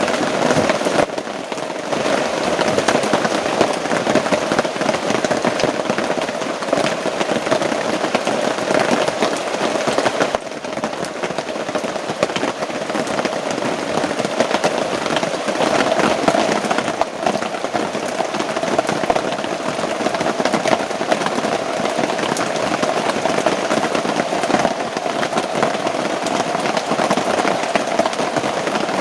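Heavy rain coming down hard, a dense, continuous crackle of drops.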